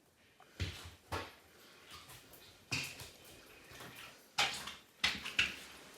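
A series of about six short knocks and clunks, irregularly spaced, with the loudest near the end.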